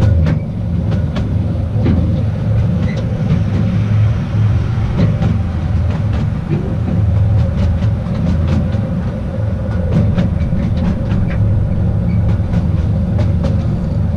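Narrow-gauge train running along the track: a steady low rumble of wheels on rail with scattered sharp clicks and a constant hum.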